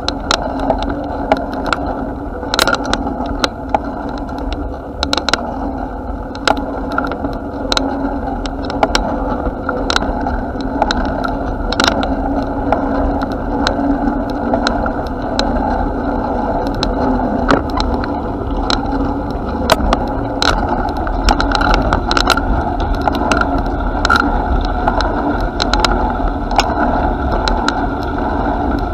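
Bicycle ride recorded from the moving bike: a steady rumble of tyres and wind, with frequent sharp rattles and clicks as the bike goes over bumps in the path.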